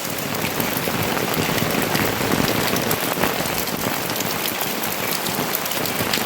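Steady rain falling, with many small drops pattering on nearby surfaces.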